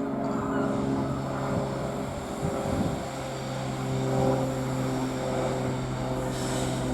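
Diesel freight locomotive engine running with a steady, low-pitched note; its pitch shifts about three seconds in.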